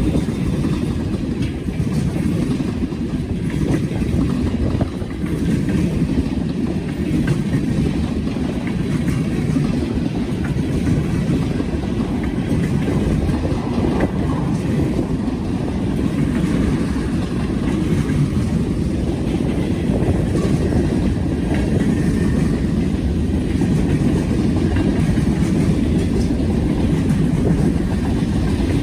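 Norfolk Southern freight train's cars rolling past, a steady low rumble with faint clicks from the wheels on the rail.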